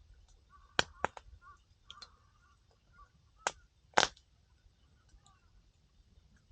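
Wood fire crackling, with four sharp pops from the burning firewood: two close together about a second in and two more around three and a half to four seconds, the last the loudest, between softer ticks.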